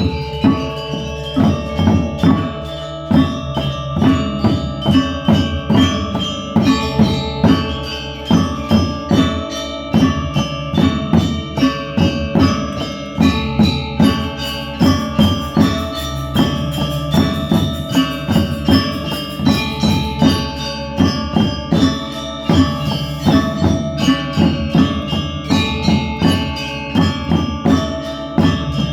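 Balinese gamelan ensemble playing: bronze metallophones struck with mallets in a fast, dense stream of ringing notes over drum strokes and deeper gong tones.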